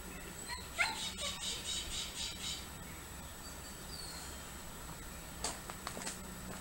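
Birds calling in a garden: a rising call and a quick run of high chirps about a second in, then a short falling whistle near four seconds. A few light clicks come near the end over a steady low hum.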